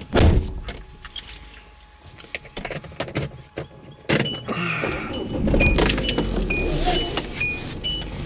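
Hyundai car door shutting with a knock, keys jangling, then the engine starting about four seconds in and running, while a dashboard warning chime beeps about twice a second.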